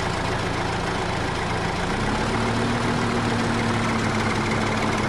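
Engine idling with a steady low hum. About two seconds in, its tone steps up slightly and it grows a little louder.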